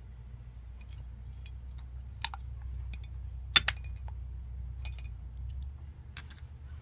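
A few light clicks and clinks from small parts being handled, with a sharp double click about three and a half seconds in, over a low steady hum.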